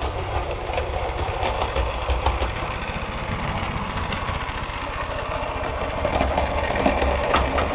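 Hornby Class 31 model diesel locomotive running along the track with its train, its motor giving a steady low hum and its wheels making irregular small clicks over the rails.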